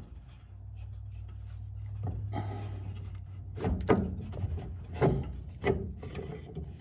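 Wooden boards scraping and rubbing as they are worked out from under a car battery in its carriage, then several sharp knocks of wood in the second half, the loudest about four seconds in.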